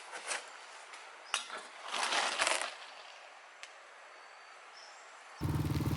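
A few brief rustling noises, the longest about two seconds in, then background music starts abruptly near the end.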